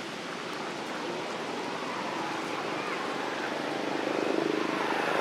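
A motor's drone growing louder over steady outdoor noise, strongest over the last second or so.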